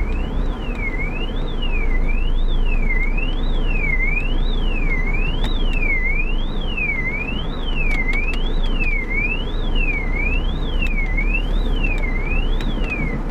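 An electronic alarm siren wailing, its pitch sweeping evenly up and down about once a second, over a steady low rumble.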